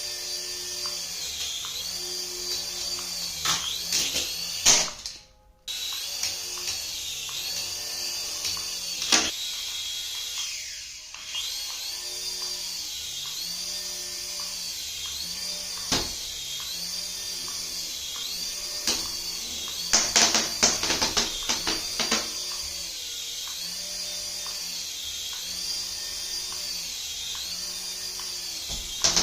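A battery-powered toy playing a repeating electronic sound-effect loop over a small electric motor's whine, with several sharp plastic clicks and knocks, most of them in a cluster about two-thirds of the way through.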